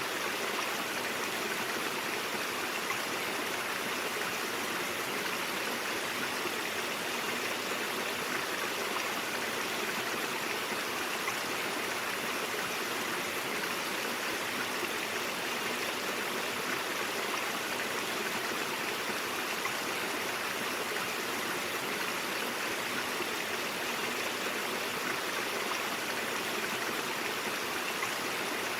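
Stream water flowing over rocks, a steady, even rushing and babbling.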